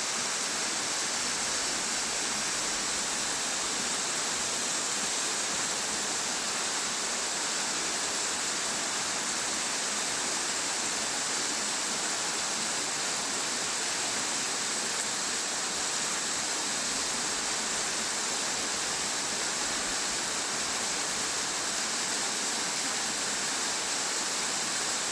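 Shirafuji Falls waterfall, a steady, even rush of falling water.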